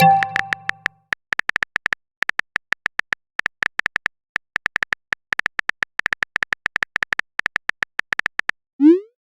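Smartphone keyboard typing clicks, quick and irregular for about seven seconds, then a short rising pop as the message is sent. The tail of a message notification chime fades out at the start.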